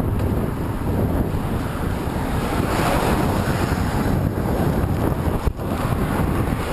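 Strong wind buffeting the microphone while cycling into a headwind, a steady low rumbling roar that briefly dips about five and a half seconds in.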